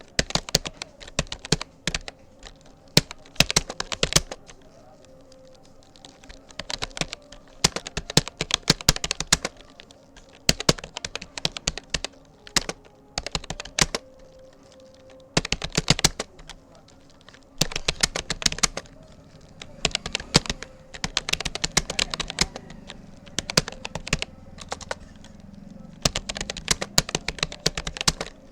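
Typing on a Rapoo computer keyboard: quick runs of keystroke clicks broken by short pauses, as during a timed typing-speed test.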